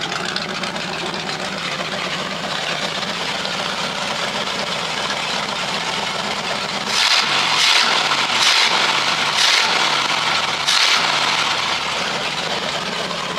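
Ford 460 V8 with a Holley carburettor running just after start-up. About seven seconds in it is revved in several quick throttle blips, each rising and falling in pitch, then settles back. The choke is stuck closed, which the owner says floods the engine once it is running.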